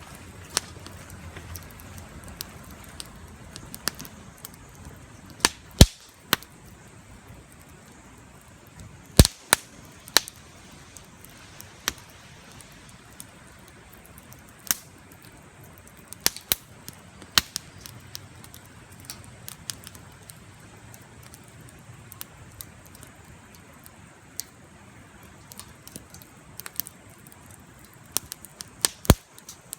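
Wood campfire crackling, with irregular sharp pops and snaps, a few much louder ones among them.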